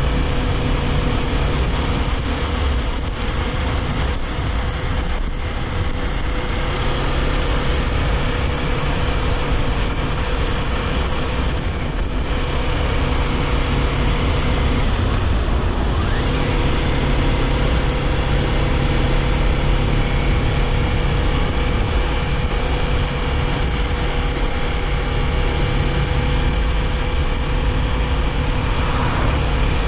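Kawasaki Ninja 400's parallel-twin engine running at a steady cruise under a rush of wind and road noise. The engine note drops out briefly about halfway through and then picks back up, and near the end it rises and falls briefly.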